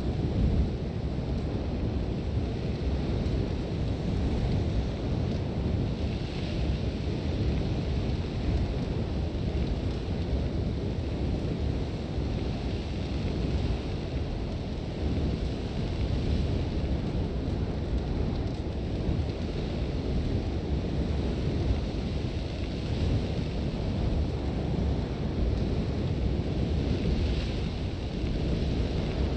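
Strong wind from a sandstorm blowing steadily, with a deep low rumble and a fainter hiss of blown sand that swells gently now and then.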